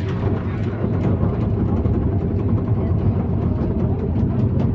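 Glass-bottom tour boat's engine running steadily: a continuous low drone.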